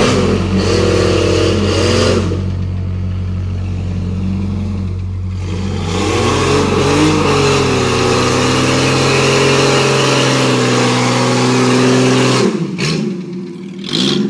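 Jeep Cherokee's engine revving up and down while stuck in a deep mud hole, straining to climb out. The revs ease off near the end, then pick up again.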